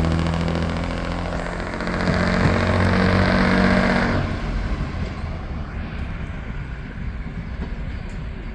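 An engine running steadily, which cuts off sharply about four seconds in, leaving a quieter outdoor rumble.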